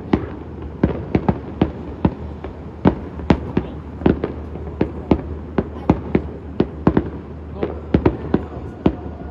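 Aerial fireworks bursting in a quick, irregular series of sharp bangs, about two or three a second, over a steady low hum.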